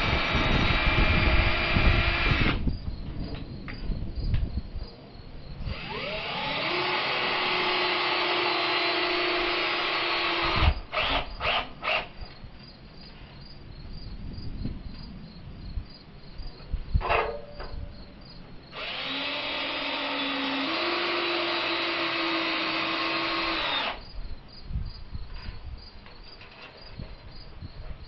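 Power drill running in three long steady bursts, each spinning up with a rising whine, with a few short trigger blips and knocks between them. Crickets chirp faintly in the gaps.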